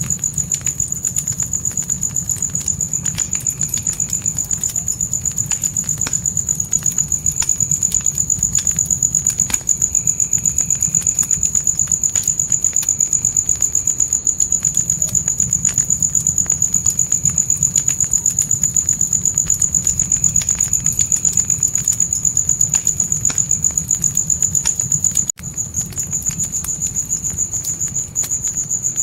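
Crickets chirping in a fast, steady, high-pitched pulsing trill over a campfire's low rumble and scattered crackles. The whole mix cuts out for an instant once, near the end.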